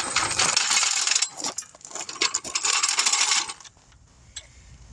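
Dense metallic rattling and clicking, like metal tools and lug nuts being handled during a wheel change, lasting about three and a half seconds with a short break about a second and a half in.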